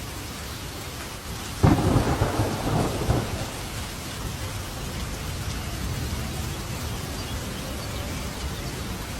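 Steady rain falling, broken about one and a half seconds in by a sudden close thunderclap that rumbles on for a second or two and fades back into the rain.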